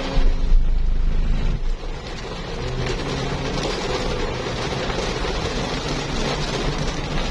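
A car driving: a steady wash of road noise with a low engine hum, and a heavy low rumble for the first two seconds.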